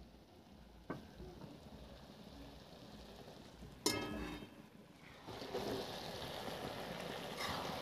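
A steel plate clanks once against metal just before the chaap pieces go into the hot masala in a kadhai. From about five seconds in there is steady sizzling as they fry and are stirred.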